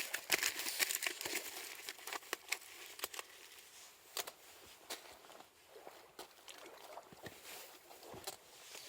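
Aluminium foil crinkling and crackling as it is handled around a fire-baked sweet potato. A dense run of crinkles comes in the first two seconds, then scattered, sparser ones.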